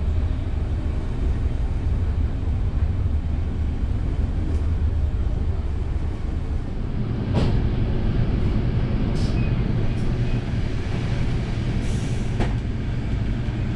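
Inside a passenger coach of a PKP EuroCity train running on the line: a steady low rumble, with a few sharp clicks from about seven seconds in.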